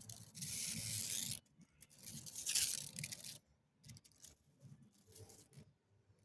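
Two rough scratching, rubbing noises, each a little over a second long, the second one louder, with faint rustling between them.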